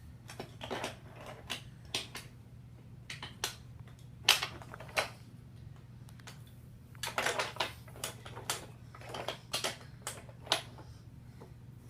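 Toy train set being handled, with irregular clicks and light clatters of the engines and cars, some in quick clusters. A steady low hum runs underneath.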